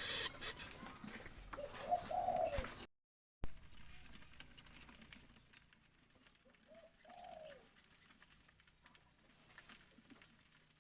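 A dove cooing: two short, arched low coos, one about two seconds in and another about seven seconds in. The sound cuts out briefly around three seconds and comes back with a click.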